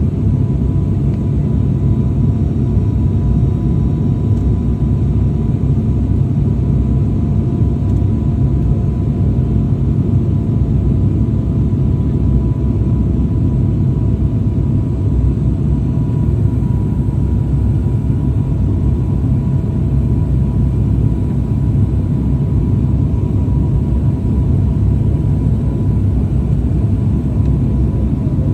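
Aircraft in flight: a steady, unbroken engine rumble with a few faint steady tones above it.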